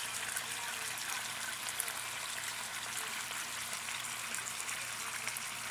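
Chicken thighs frying in oil and sauce in a pan: a steady sizzle with many small crackles, over a faint low hum.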